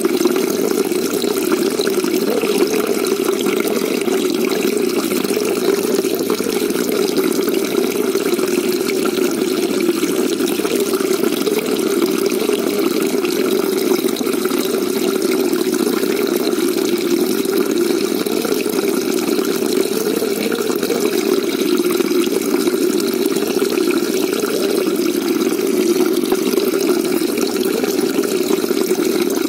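Steady, unbroken rush of water in a shallow koi pond, even in level, with a deep, low-pitched tone.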